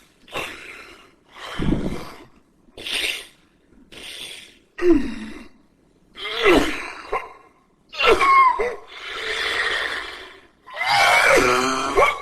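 A man crying: a run of sharp breathy gasps and sniffles, then sobbing cries that waver in pitch from about five seconds in, the longest and loudest near the end.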